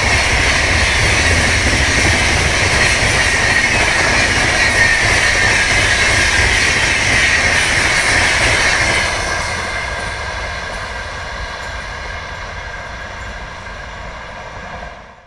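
Indian Railways express train passing at speed: a loud rush of wheels on rail with a high ringing tone that slowly drops in pitch. It fades away from about nine seconds in, then cuts off abruptly at the end.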